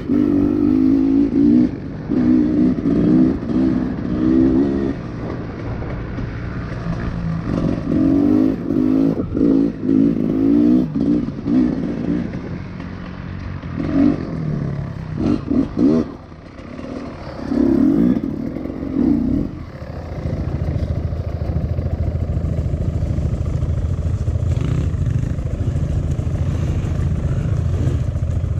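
Honda CRF110 pit bike's small single-cylinder four-stroke engine revving in repeated throttle bursts as it is ridden, then settling into a steady low drone about two-thirds of the way through.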